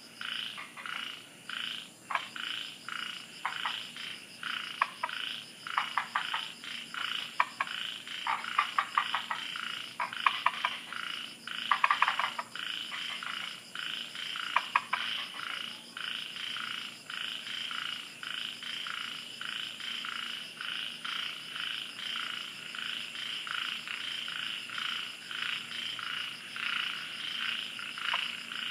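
Chorus of many frogs calling at night: short rapid clicking call-trains from several frogs over a steady pulsing background chorus. The clicking calls are thickest in the first half, then the chorus carries on more evenly.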